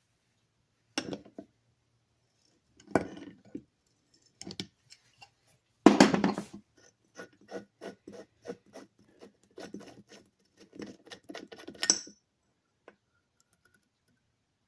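Hand work on the metal parts of an antique electric motor: a few separate scrapes and knocks, then a quick run of short rubbing strokes, about two a second, ending in a sharp metallic clink.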